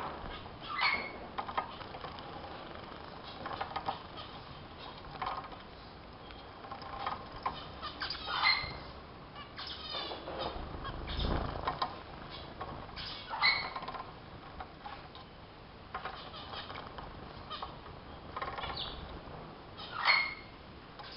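Small cage finches (zebra, Bengalese and strawberry finches) bathing under a water shower: short sharp calls and chirps now and then, the loudest four times, with wing flutters and splashing.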